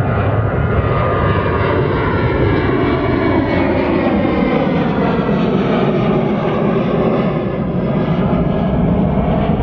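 A large airliner flying low overhead: a loud, steady engine roar whose pitch slowly sweeps up and down as it passes.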